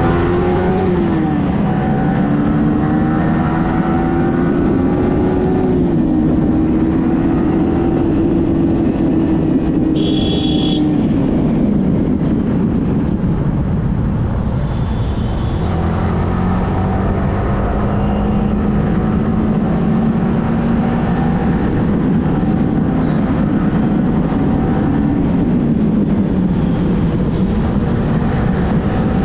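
Yamaha R15M motorcycle's single-cylinder engine under way, its pitch climbing and then dropping several times as the rider accelerates and shifts gears, over a steady rush of road and wind noise. A brief high beep sounds about ten seconds in.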